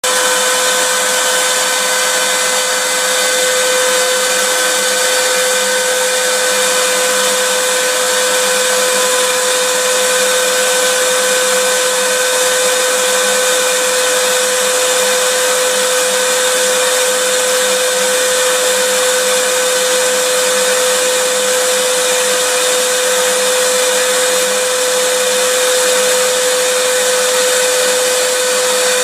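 Vacuum cleaner running steadily: a constant motor whine over an even rush of air, unchanging throughout.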